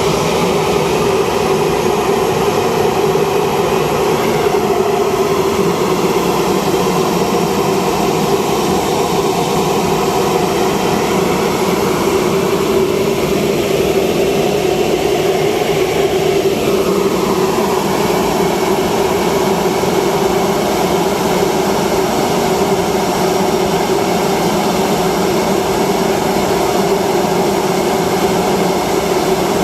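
Ex-Sriwijaya Air airliner's engine running at idle power, a loud, steady drone.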